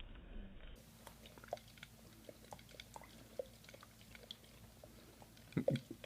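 A pet chewing and smacking its mouth on food: scattered small wet clicks, with a few louder smacks near the end.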